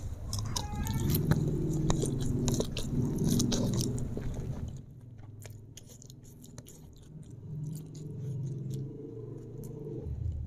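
Close-miked chewing and wet mouth sounds of eating stir-fried flat rice noodles (kwetiau goreng), full of small clicks and smacks. It is louder through the first half and quieter from about halfway on.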